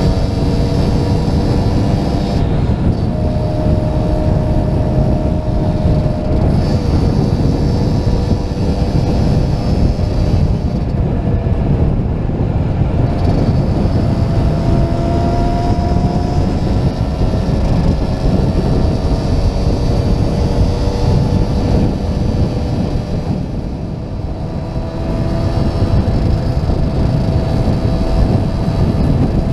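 Small two-stroke motorcycle engines running at cruising speed, their tones drifting a little up and down, under a heavy wind rumble on a helmet camera. The wind eases briefly about 24 seconds in.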